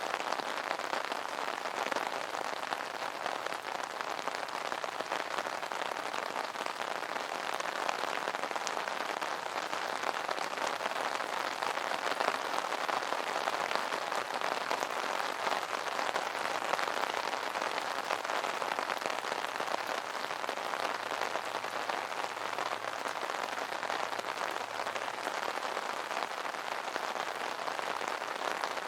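Rain drumming steadily on an umbrella canopy, a dense even patter of drops.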